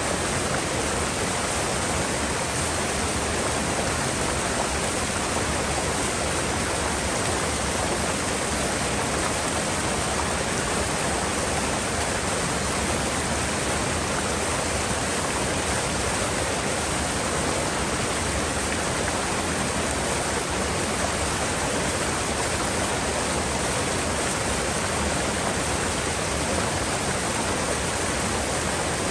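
Mountain river in a gorge, its water rushing steadily with an even, unbroken noise.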